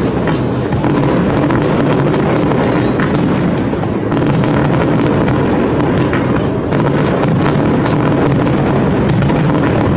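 Fireworks display: a dense, continuous rumble of bursts at a steady loudness, with no single bang standing out.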